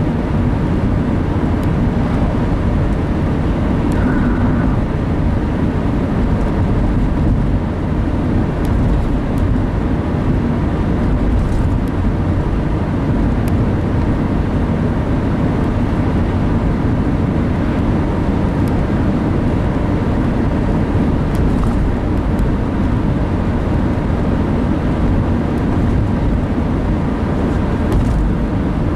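Steady drone of a car driving at road speed, heard from inside the cabin: engine and tyre noise with no change in pace.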